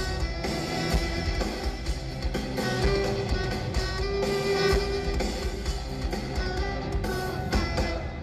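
Live heavy-metal music from amplified, distorted cellos over a drum kit, played loud with a steady driving beat.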